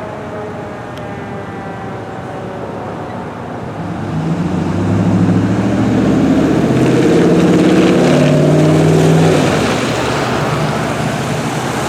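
Fire engine siren winding down and fading out at the start, then the truck's diesel engine running loud as it passes close by, from about four to nine seconds in, before easing back to a steadier, quieter vehicle sound.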